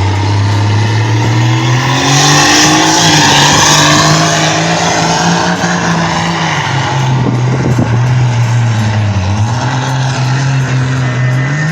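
A pulling vehicle's engine running hard at high revs under heavy load during a pull run. Its pitch steps up, sags about nine seconds in and climbs again near the end, with a loud rush of tire and exhaust noise from about two to seven seconds in.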